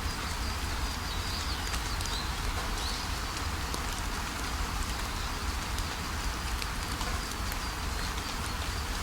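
Steady rainfall with many small drops ticking, and faint high bird chirps in the first few seconds and again near the end.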